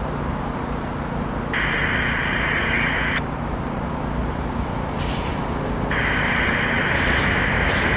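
SEPTA electric multiple-unit commuter train approaching, a steady low rumble growing louder toward the end. A bright high hiss comes in about a second and a half in, drops out after about three seconds and returns around six seconds in.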